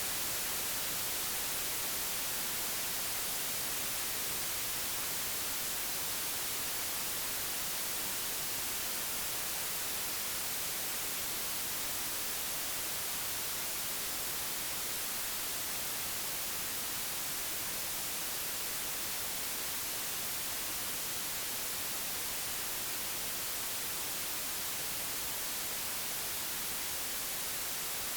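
Steady, computer-generated white noise: an even hiss.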